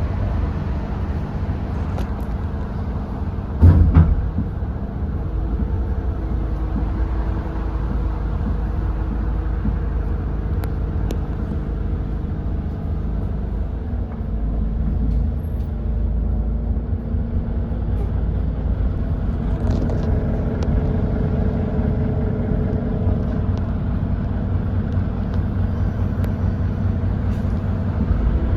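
Edison Motors Smart 110G natural-gas city bus's GX12P engine running steadily under way, heard from inside the cabin, its note shifting about halfway through. A single loud thud comes about four seconds in.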